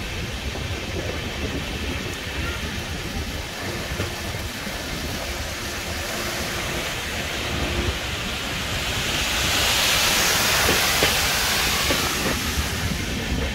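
Passenger express train running on the rails, heard from inside a coach at the window: a steady rumble and wheel rattle, with a rush of hissing noise that swells from about nine seconds in.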